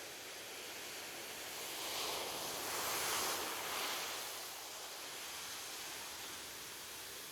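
Ocean surf: a steady wash of waves with one wave breaking and swelling louder about two seconds in, peaking about a second later, then fading back to the steady hiss.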